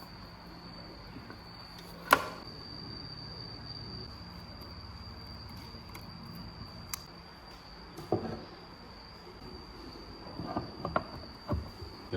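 A steady high-pitched whine with a low hum under it. A loud sharp click comes about two seconds in, and a few smaller clicks and knocks near the end.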